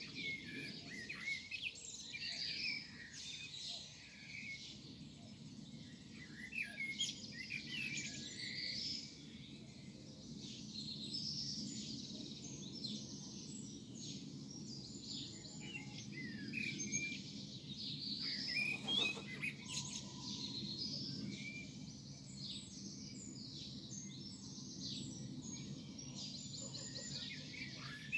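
Morning birdsong: several birds chirping and trilling in overlapping short phrases, over a low steady background rumble.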